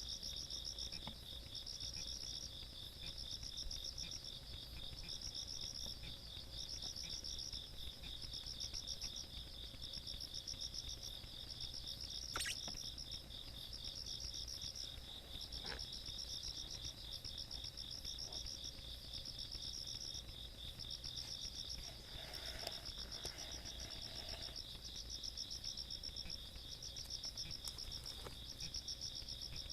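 A night chorus of insects singing together: one rapid, continuous trill, and a higher one in repeating bursts about once a second.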